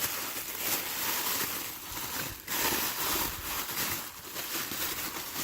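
Packaging rustling and crinkling as an item is unwrapped from its box, with a few brief sharper rustles.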